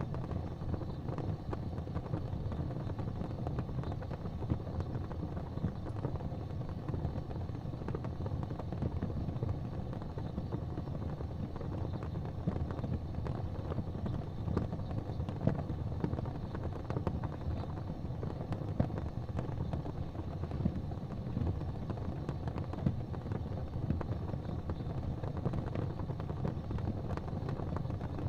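Fireplace fire crackling: scattered small pops and snaps over a steady low rumble.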